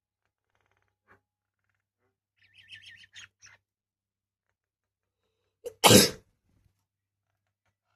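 A small bird gives a quick run of high chirps, then a few seconds later there is a single loud, short, sneeze-like burst.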